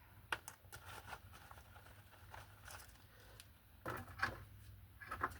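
Faint handling noise: scattered light clicks and rustles, with a sharper click about a third of a second in and small clusters of clicks near four and five seconds, over a faint low hum.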